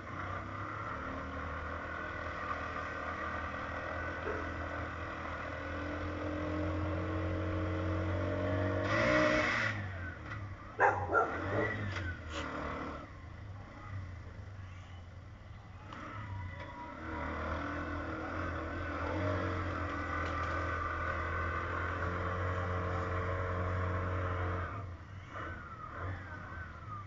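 Moto taxi engine revving hard under load as it strains to pull out of a stream it is stuck in, easing off in the middle and again near the end. A brief loud rushing burst and a few sharp knocks break in about a third of the way through.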